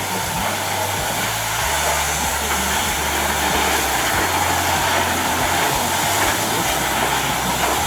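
Steady, loud hissing noise, with a low rumble underneath that cuts in and out every second or two.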